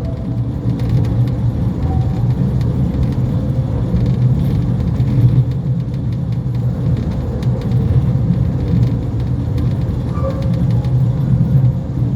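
Mail Rail battery-electric passenger train running along the narrow-gauge track, a steady low rumble of wheels and running gear.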